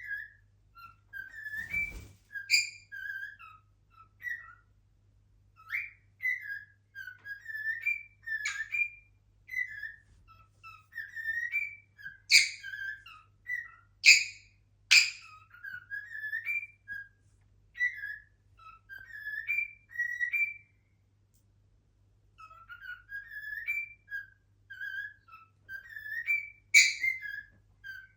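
Cockatiel whistling its song: a long string of short whistled notes that slide up and down in pitch, with a few louder, harsher notes mixed in and a short pause about two thirds of the way through.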